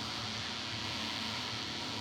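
King Drone analog drone synth putting out a steady wash of high-pass filtered noise hiss over held low drone tones, with a slow phaser-like sweep moving through the hiss.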